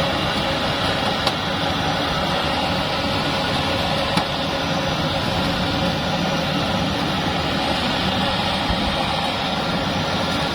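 Bimo Plus mobile rice thresher running steadily at an even pitch.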